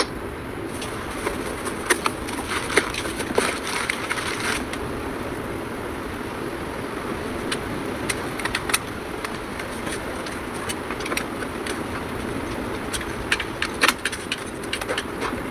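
Scattered sharp clinks and clicks of hand tools on metal, clustered in short bursts, over a steady background hum.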